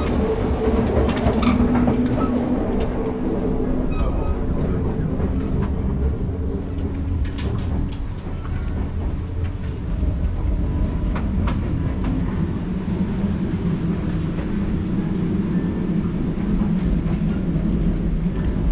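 Kintetsu Blue Symphony electric train running along the track: a steady rumble with a motor hum and scattered clicks of the wheels passing over rail joints.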